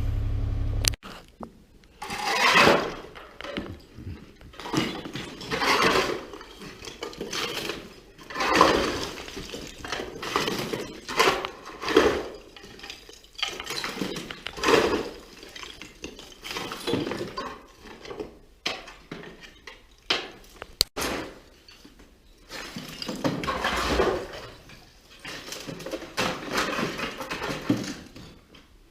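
A steady low hum cuts off about a second in. After it come irregular clinks, scrapes and rustles of things being handled and moved.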